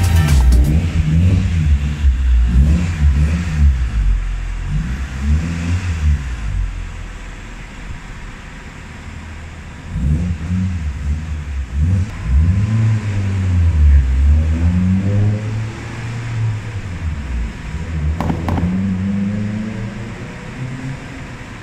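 Proton Wira SE's 1.8-litre Mitsubishi 4G93 four-cylinder engine revved in repeated blips, the pitch climbing and dropping again and again in two spells with a quieter lull between. Near the end comes one slower, longer rise in pitch.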